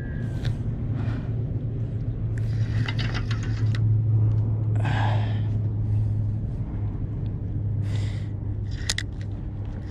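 A steady low hum throughout, with several short hissing or scraping bursts at about two and a half, five, eight and nine seconds in.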